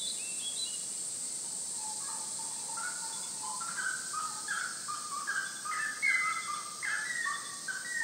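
A bird singing a long run of short whistled notes that step up and down in pitch, starting about two seconds in and growing busier. A steady high hiss runs underneath.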